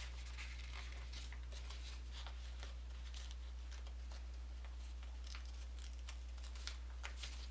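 Origami paper being folded and creased by hand: soft, scattered rustles and crinkles over a steady low hum.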